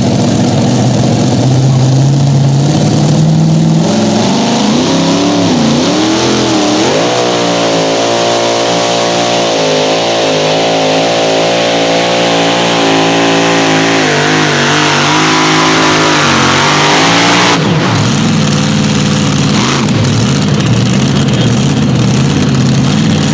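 A pulling vehicle's engine running hard and revving, its pitch wavering up and down. The sound changes abruptly about three-quarters of the way through.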